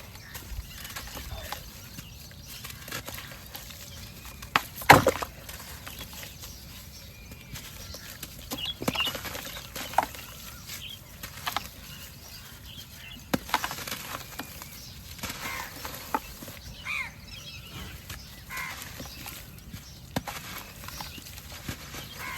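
White cement shapes being crumbled with water: irregular cracks, crunches and small wet crackles, with one sharp snap about five seconds in.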